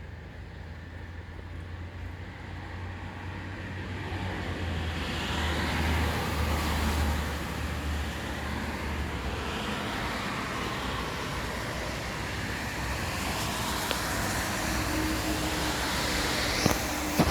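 Road traffic: a vehicle's low rumble and tyre noise build up and pass about five seconds in, then steady traffic noise continues, with a sharp click near the end.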